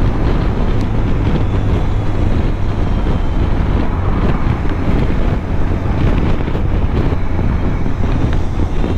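A moving vehicle's steady road and engine rumble, with wind buffeting the microphone.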